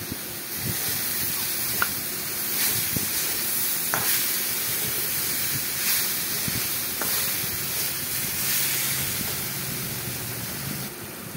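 Sliced mahua fruit frying in mustard oil in a metal karahi, sizzling steadily, while a spatula stirs and scrapes the pan with a few light clicks.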